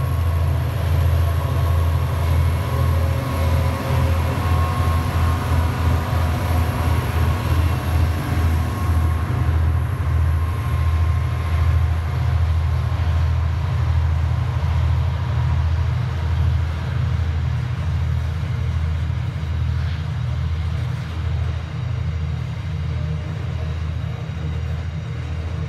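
Diesel-hauled freight train passing: the locomotive goes by at the start, then a long line of hopper wagons rolls past with a steady, loud low rumble that pulses unevenly.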